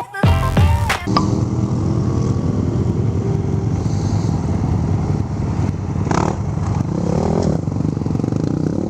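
A motorcycle engine running steadily, after a music intro cuts off about a second in.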